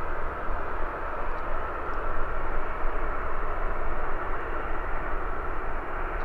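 Jet airliner arriving on approach: steady engine noise, an even rushing sound with a low rumble underneath.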